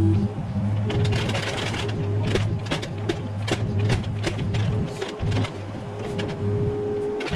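Mini excavator working: its engine and hydraulics run with a steady hum and a higher whine that comes and goes, while the steel bucket knocks and scrapes through debris in irregular clatters.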